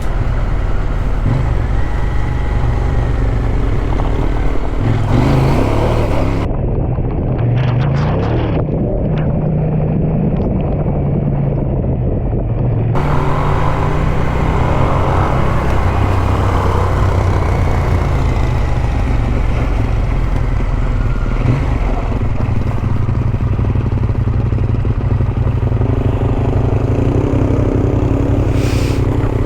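Adventure motorcycle engine running as the bike rides a dirt trail, its pitch rising and falling with the throttle. For several seconds, a little after a fifth of the way in, the sound turns muffled.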